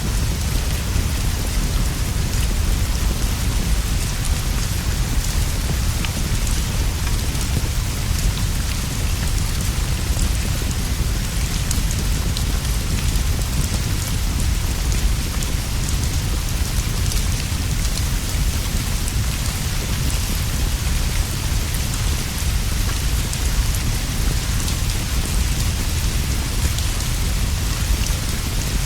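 Steady heavy rain falling on leaves and a straw roof, with a deep low rumble underneath and scattered small ticks.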